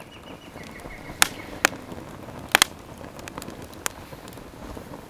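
Wood campfire crackling: sharp pops, the loudest about a second and two and a half seconds in, over a steady hiss of burning.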